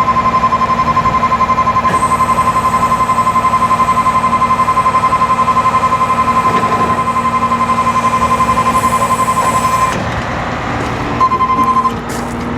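Outrigger warning alarm on a utility bucket truck beeping rapidly in one steady tone as the outriggers are lowered, over the steady hum of the running diesel engine. The beeping stops about ten seconds in, sounds again briefly, then stops.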